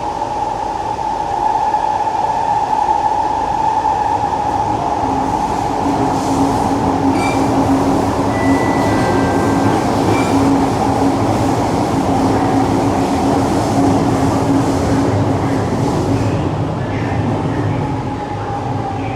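Siemens C651 metro train running through an underground tunnel, heard from inside the car: a loud steady rumble of wheels and running gear with the traction motors' steady whine. Near the end the whine starts to drop in pitch as the train slows.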